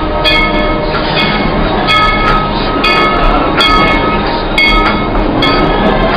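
Tweetsie Railroad steam train rolling slowly, heard from an open passenger car: a steady rumble of the cars on the rails with a rhythmic clatter and ringing about once a second.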